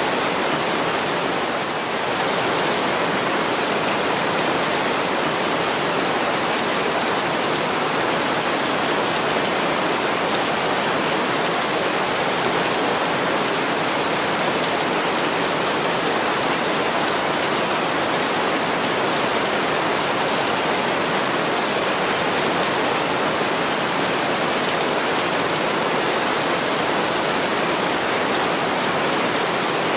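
Heavy rain pouring steadily on a window: a dense, even hiss.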